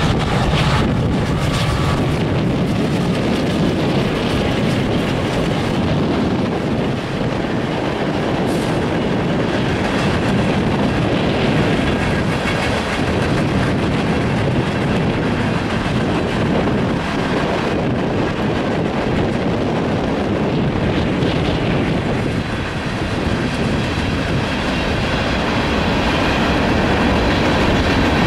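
Freight train passing: the low engine hum of the CSX diesel locomotives fades in the first couple of seconds, then a long string of Herzog ballast hopper cars rolls by with a steady, even rumble of wheels on rail.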